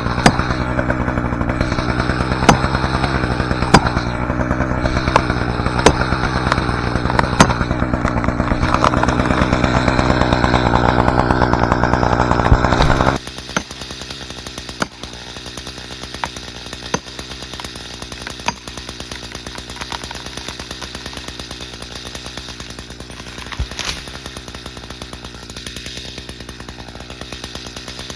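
Chainsaw engine running at a steady idle while sharp metallic strikes land about every second and a half, hammer blows driving steel felling wedges. About halfway through, the saw shuts off abruptly, leaving quieter crackling and scattered knocks, with one sharper crack near the end.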